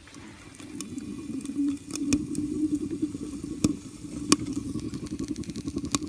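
Wood fire in the base of a ghillie kettle, drawing up through the chimney with a low fluttering rumble that swells about a second in, and sharp crackles and pops from burning sticks. The fire is still smoking heavily and not yet fully alight.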